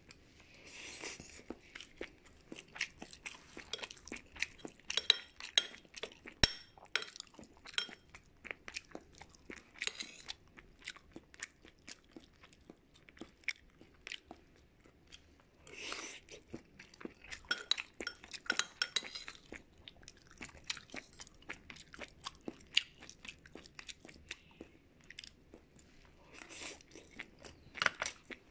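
Close-miked eating: a person chewing and crunching a chicken and tofu dish, with many sharp crunches in quick succession and a couple of short lulls.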